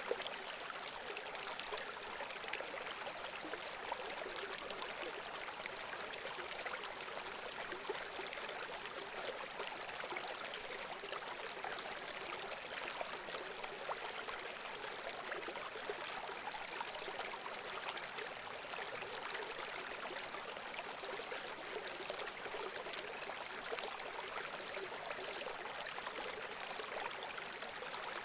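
Running water flowing steadily, an even rushing and babbling with no pauses or changes.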